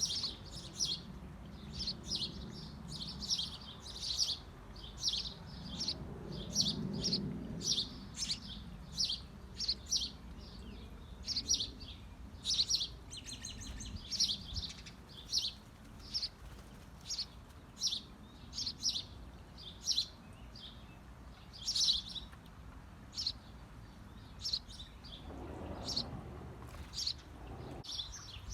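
Small birds chirping: a steady run of short, high chirps, about two a second.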